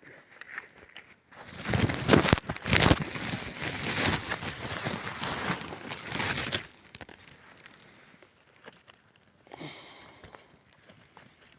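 Loud crumpling and crackling, close up, for about five seconds, starting suddenly a little over a second in and stopping abruptly.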